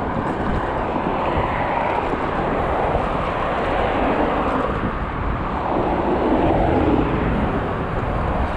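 Steady rushing wind noise with low rumbling buffeting on the microphone while riding a bicycle into a strong wind, swelling and easing slightly over the seconds.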